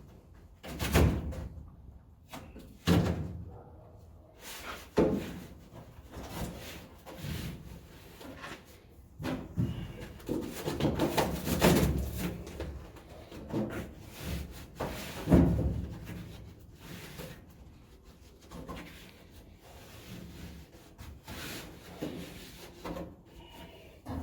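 Irregular clunks, knocks and rattles of parts and tools being handled during cab bodywork, with the loudest bangs about a second in, about three seconds in and around fifteen seconds in.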